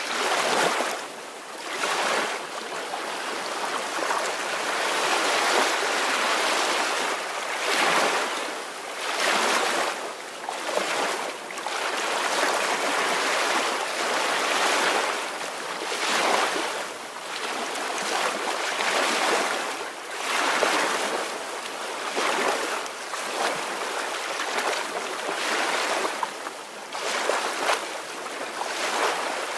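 Ocean waves washing ashore: a continuous hiss of surf that swells and ebbs every second or two.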